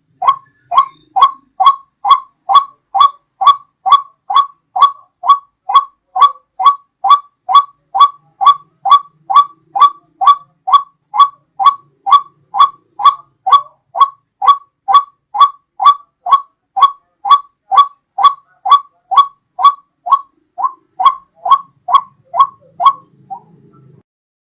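White-breasted waterhen (ruak-ruak) lure call: a long, even run of short, loud call notes, about two a second, stopping near the end.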